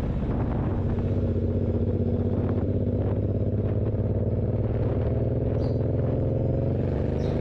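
Suzuki Boulevard M109R's big V-twin engine idling steadily, its note starting to rise near the end as the revs pick up.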